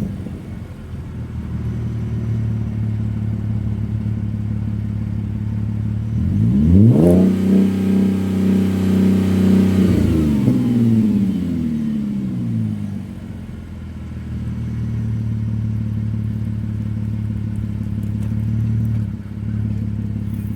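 Audi A6 Avant wagon's engine through an exhaust with the rear mufflers deleted and the mid mufflers still in place. It idles, is revved up sharply about a third of the way in, holds high for about three seconds, then slides back down to idle.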